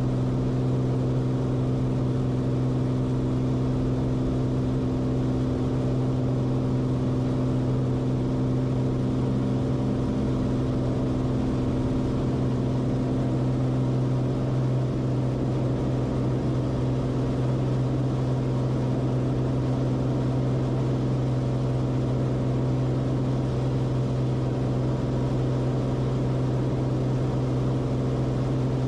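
Cessna Corvalis TTX's turbocharged six-cylinder engine and propeller droning steadily, a constant low hum with no change in pitch.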